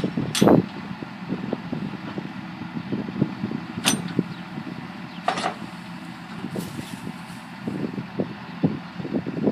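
Silage-harvesting farm machinery such as tractors running with an uneven low rumble, and three sharp knocks.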